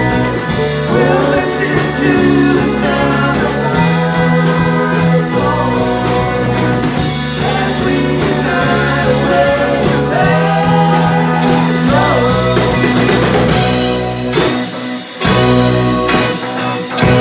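Psychedelic rock band playing a jam: electric guitars, bass and drum kit, with a short drop in loudness near the end.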